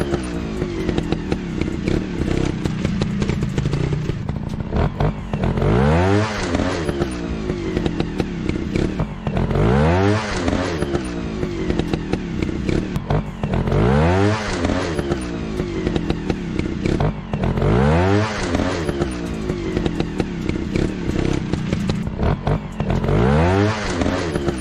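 Trail motorcycle engine revving up and dropping back repeatedly, a rise roughly every four seconds, over a steady running note with some clattering.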